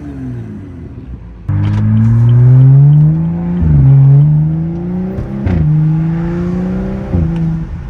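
2015 BMW 335i's turbocharged inline-six running through a catless downpipe and muffler-deleted, straight-through exhaust with the flap welded open, accelerating hard. From about a second and a half in it gets suddenly loud, its note climbing and dropping back sharply three times as it shifts up.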